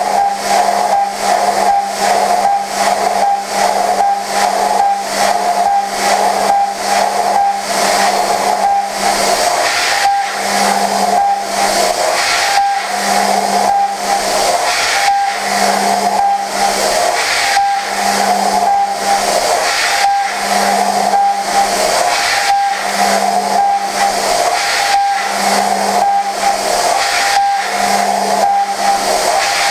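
Okuma GENOS M560V vertical machining center high-speed milling prehardened 4140 steel: a steady high cutting tone over a loud hiss. From about ten seconds in, a lower tone swells and fades about every two and a half seconds.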